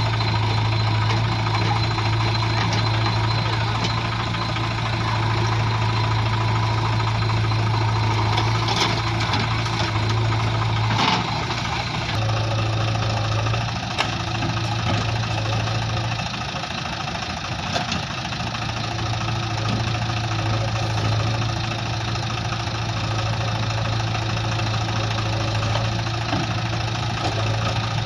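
A heavy diesel engine running, with a strong low hum that fades out and comes back a few times. A few sharp knocks come through near the middle.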